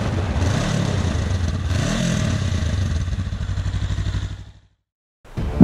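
Motorcycle engine running with two short revs that rise and fall, then fading out about four and a half seconds in; after a brief silence a loud deep thud comes right at the end.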